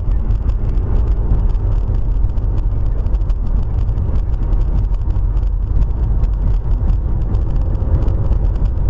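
Steady low rumble of a moving vehicle, engine and road noise as picked up by a dash-cam microphone, cutting off suddenly at the end.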